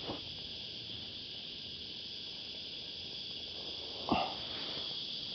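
Cicadas droning in a steady, high-pitched chorus, with one short, louder noise about four seconds in.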